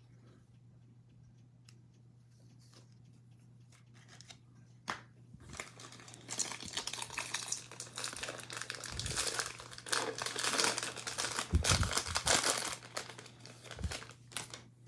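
Foil trading-card pack wrapper crinkled and torn open, starting about five seconds in and going on for several seconds, over a steady low hum.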